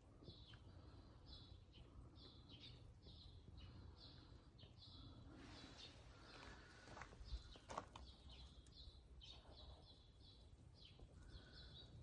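Faint, repeated short chirps of a small bird, about two a second, over a low steady outdoor rumble. A couple of sharp clicks come a little past the middle.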